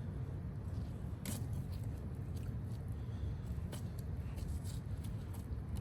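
Fillet knife cutting along a striper's spine, with a few short sharp scrapes, the clearest about a second in and again near four seconds, over a steady low rumble.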